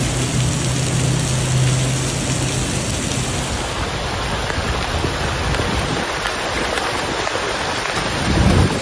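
Heavy rain pouring onto floodwater, a dense steady hiss, with a low steady hum under it for the first few seconds. A brief louder low rumble comes near the end.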